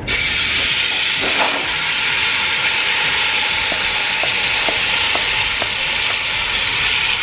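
Marinated chicken pieces frying in hot olive oil in a pan: a loud, steady sizzle with small pops every half second or so.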